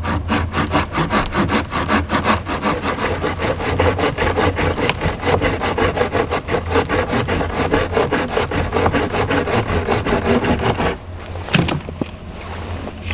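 Hand saw cutting through wood in quick, even back-and-forth strokes that stop about eleven seconds in, followed by a couple of knocks.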